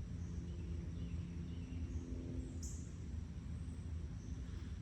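Outdoor ambience: a steady low rumble with a faint hum underneath, and a bird giving a short high chirp about two and a half seconds in, with a few fainter chirps around it.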